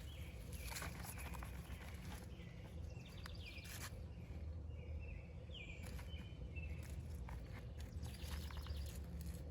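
Hands digging through potting soil in a potato container, with soft scattered crunches and scrapes. A few short bird chirps sound in the background.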